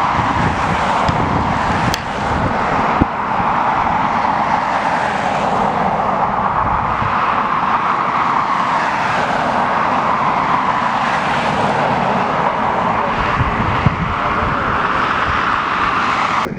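Jet airliner engines, a steady rush of noise that swells and fades slightly, with gusts of wind buffeting the microphone.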